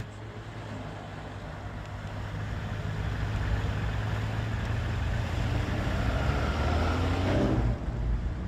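Mercedes-AMG GLA35's 2.0-litre turbocharged four-cylinder engine running as the car drives, growing louder, with the engine note rising near the end before it cuts off suddenly.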